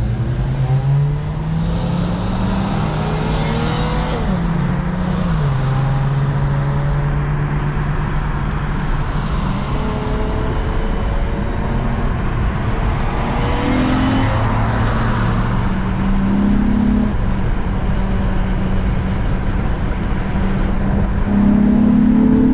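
Acura TL SH-AWD's J37 V6 running under way with a raspy exhaust note from its precat deletes and J-pipe, the engine pitch climbing and dropping several times with throttle and gear changes. Two brief rushes of noise, about 3 seconds in and about 14 seconds in, sound like passing traffic.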